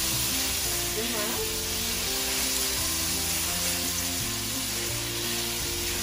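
Chopped onion and garlic sizzling in hot oil in a stainless steel skillet as they are stirred; a steady frying hiss.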